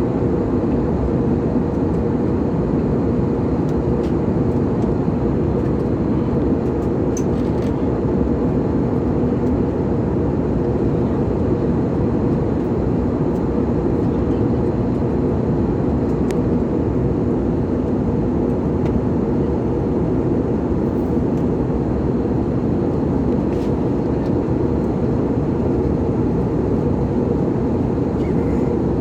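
Steady cabin noise of an airliner in flight: a constant rumbling roar of jet engines and airflow, heard from inside the passenger cabin. A few faint clicks come through it now and then.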